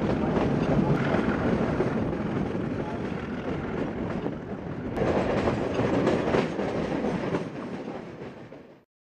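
Metre-gauge passenger train running, heard from a coach window: a steady rumble and rattle of wheels on the rails with a few sharp clicks. It swells twice, fades, and cuts off just before the end.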